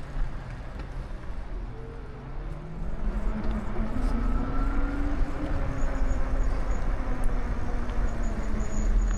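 Road traffic going by: a vehicle's engine drone that slowly shifts in pitch, over a steady low rumble, getting louder about three seconds in.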